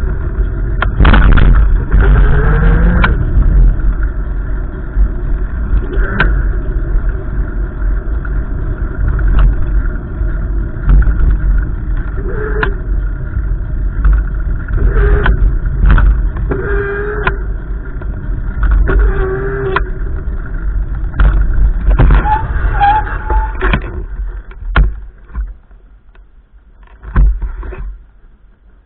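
Strong gusty wind buffeting the microphone: a loud, ragged low rumble with scattered knocks and clicks, dying down over the last few seconds.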